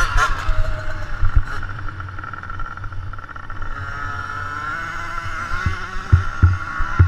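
Dirt bike engines running on a motocross track: a steady high whine that wavers in pitch, with low thumps in the last couple of seconds.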